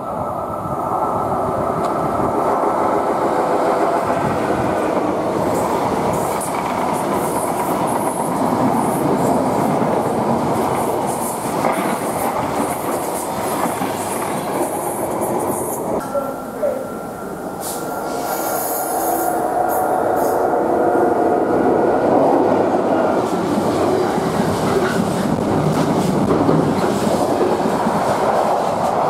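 Trains rolling through the station: first a locomotive-hauled passenger train with its driving van trailer, then a long container freight train on flat wagons, with a steady rumble and wheels clattering over rail joints. About two-thirds of the way in there is a brief high-pitched squeal as the freight passes.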